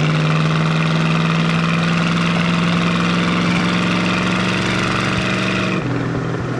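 1971 Plymouth Road Runner's 383 big-block V8 running steadily under way, then stepping down to a lower note near the end.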